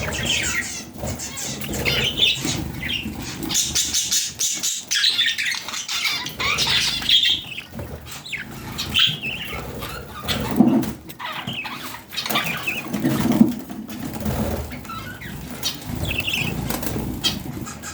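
Budgerigars chirping in short scattered calls, with the fluttering of wings.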